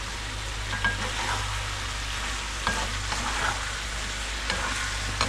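Chicken pieces sizzling in a karahi while a spoon stirs them, with a few sharp clicks of the spoon against the pan. A steady low hum runs underneath.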